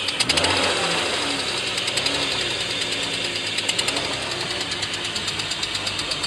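BMW M50B25 straight-six engine running with a regular, fast ticking knock, which the owner traces to cylinder 1 and suspects is a rod bearing or the exhaust valves.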